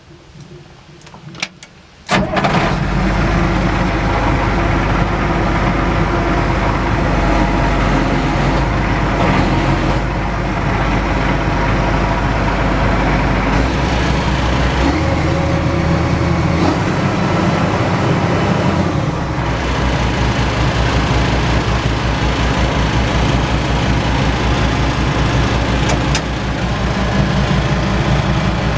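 John Deere 6068T six-cylinder turbo diesel engine starting about two seconds in after a few clicks, then running steadily, its note shifting a couple of times.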